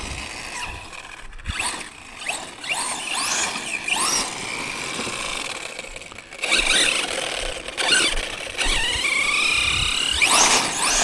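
Tekno MT410 2.0 1/10-scale RC monster truck's electric motor and drivetrain whining in repeated rising and falling sweeps as the throttle is worked. It sounds a little rough, which the driver puts down to stones caught in the drivetrain.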